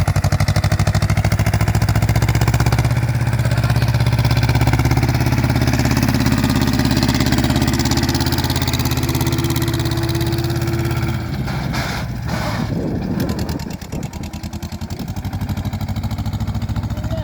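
Tractor diesel engine running hard under load, with a steady loud chug of firing pulses. About eleven seconds in the engine note drops and wavers, dips briefly a few seconds later, then settles back into a steady run.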